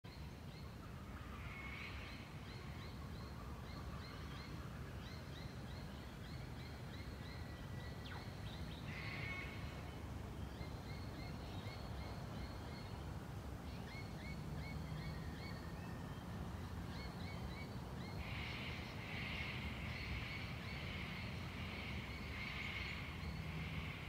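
Birds calling: runs of short, quick repeated chirps, turning into a busier chorus of calls about three quarters of the way through, over a steady low rumble.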